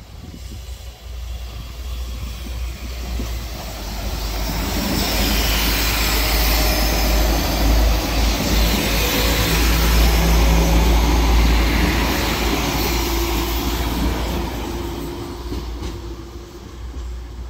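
West Midlands Railway Class 172/3 Turbostar diesel multiple unit passing at speed, engine and wheel-on-rail noise. It builds to a peak from about six to twelve seconds in, then fades as the train pulls away.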